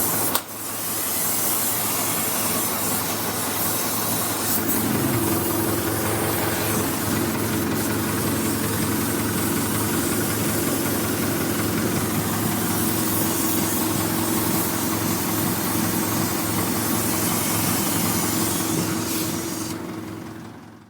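Oxy-acetylene cutting torch hissing steadily as it cuts through steel, with a low steady hum underneath.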